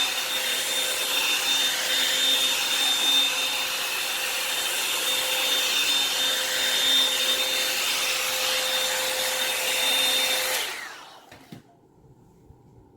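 Revlon hot-air dryer brush running with a steady blowing hiss and a high motor whine. It is switched off about ten and a half seconds in and spins down to quiet within a second.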